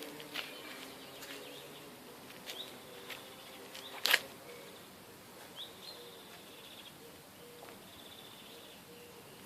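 Faint high chirping calls, several short ones that flick up and hold, with scattered light clicks and one sharp click about four seconds in.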